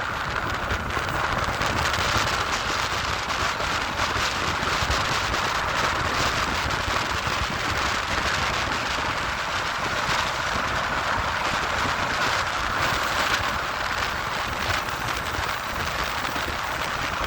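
Bernina Express train running along the track: a steady running noise with dense crackling and clicking through it.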